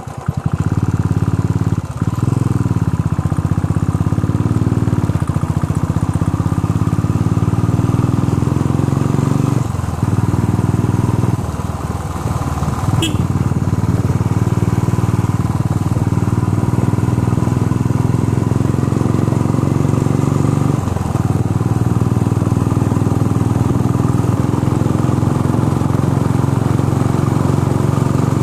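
Motorcycle engine running while riding, its pitch climbing and falling with the throttle, briefly dropping away a few times before climbing again.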